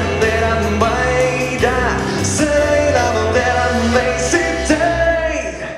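A voice singing a wordless melody over live band accompaniment with a steady bass line, in a slow jazz ballad; the music thins out and drops away near the end.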